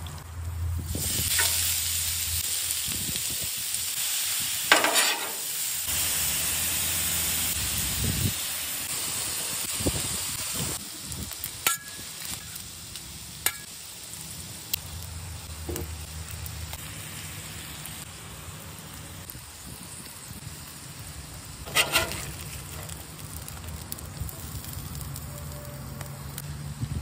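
Shaved steak and peppers frying on a hot flat-top griddle, a steady sizzle that is loudest for the first ten seconds or so and then quieter. A few sharp scrapes and taps of a metal spatula on the steel griddle top.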